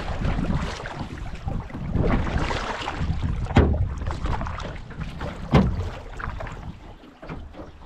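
Canoe being paddled on a river, with rough water and wind noise on the microphone and two sharp knocks, about three and a half and five and a half seconds in.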